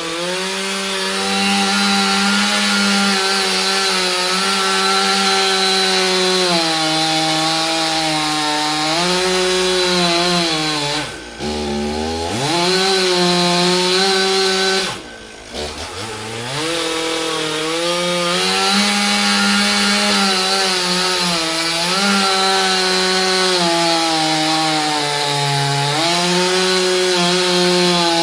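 Chainsaw running at high speed, its pitch wavering a little, then dropping sharply and climbing back twice, about 11 and 15 seconds in.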